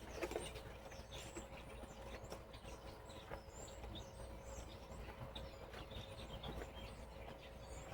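Faint outdoor ambience: scattered high bird chirps over a steady low rumble and a faint steady hum.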